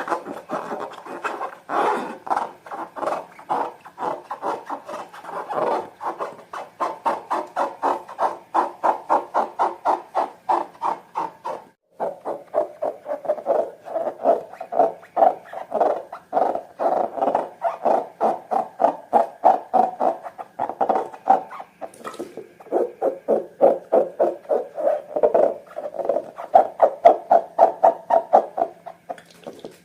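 Slime being squished and kneaded by hand, a fast rhythmic series of wet squelches, several a second, with brief pauses partway through.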